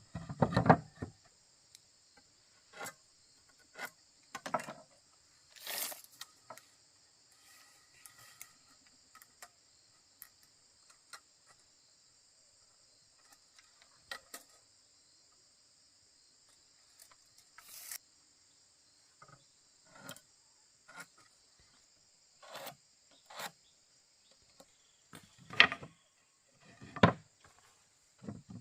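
A steady high-pitched insect chorus, with irregular knocks and taps of wood being worked and handled. The loudest knocks come about half a second in and near the end.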